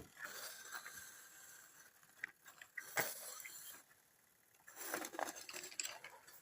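Light handling noise: scattered clicks and rustling, with one sharp click about three seconds in and a scratchy rustle near the end.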